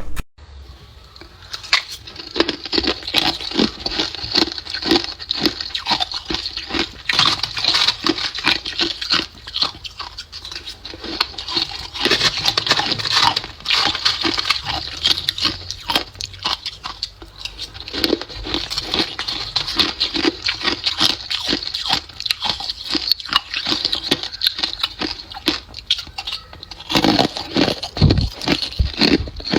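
Ice being bitten and chewed: a dense, irregular run of sharp crunches and crackles as the ice breaks between the teeth.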